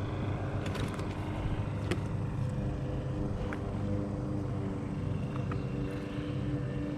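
A motor running steadily with an even hum, with a few faint clicks over it.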